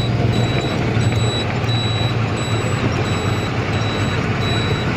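Truck engine running steadily under way, heard from inside the cab, with a high-pitched electronic beep repeating a little more than once a second.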